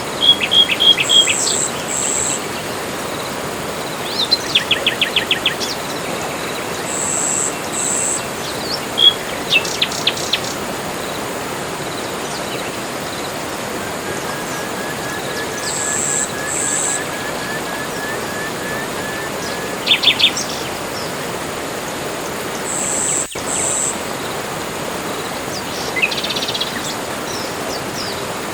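Tropical forest ambience: several birds calling over a steady hiss, with a high two-note call repeated about every seven seconds, short rattling trills, and a long thin series of rapid notes in the middle.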